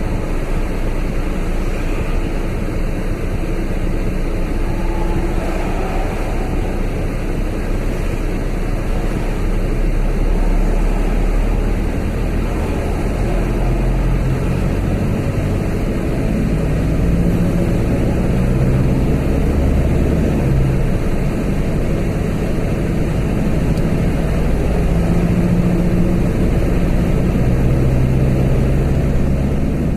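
Steady vehicle driving noise: road and tyre rumble with an engine hum. Low humming tones come in partway through and shift in pitch.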